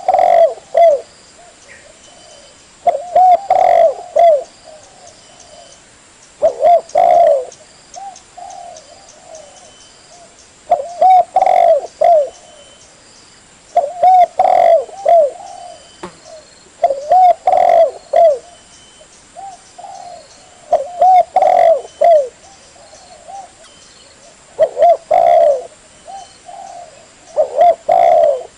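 Spotted dove cooing: a phrase of several low, rolling coos repeated about every three to four seconds, with softer coos between the phrases.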